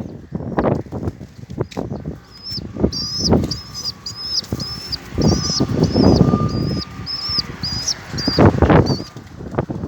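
Pet birds flapping their wings in several loud bursts, with a bird chirping a short high note over and over, about twice a second.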